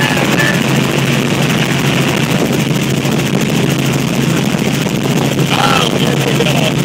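Helicopter engine and rotor noise heard from inside the cabin in flight: a loud, steady drone.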